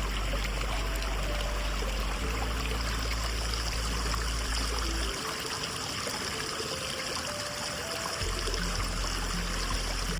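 Small stream babbling as it flows, a steady rush of water.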